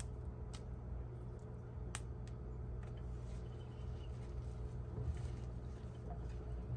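KitchenAid stand mixer driving the Spiralizer Plus attachment through a daikon radish: a low, steady motor hum with a few sharp, crisp clicks as the blade cuts the radish, most of them in the first half.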